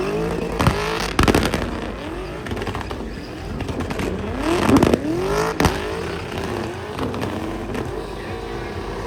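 Ford Coyote 5.0 V8 in a BMW E30 drift car revving up and down repeatedly, with sharp bangs from the exhaust about four times. The bangs are typical of an antilag system. The engine settles to a steady idle near the end.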